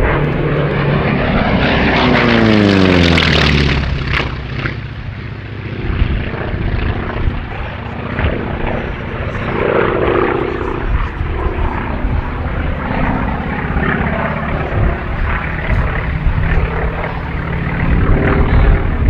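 North American T-28B Trojan's Wright R-1820 Cyclone nine-cylinder radial engine and propeller making a loud pass, its pitch dropping steeply about two to four seconds in as it goes by, then running on at a steadier drone.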